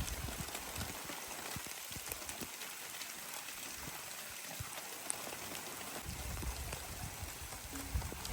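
Rain falling: a steady hiss with scattered small drip ticks. A low rumble comes in about six seconds in.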